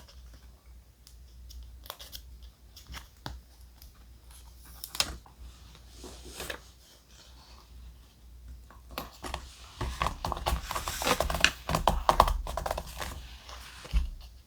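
Thick paper being handled: scattered light taps and rustles, then a denser, louder spell of crinkling and rustling about ten seconds in.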